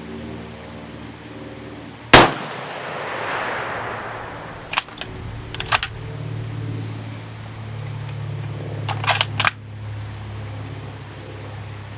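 A single shot from a heavy-barrelled 6.5 Creedmoor bolt-action rifle about two seconds in, its report echoing away over a second or so. Then sharp metallic clicks of the bolt being worked: two about five seconds in and a quick cluster near nine seconds.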